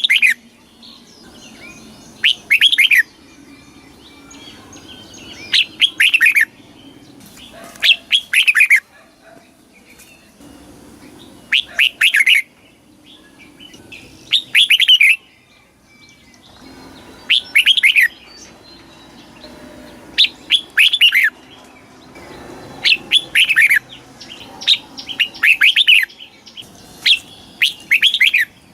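Red-whiskered bulbul singing: short, bright phrases of a few quick falling notes, repeated about every two to three seconds, around ten phrases in all.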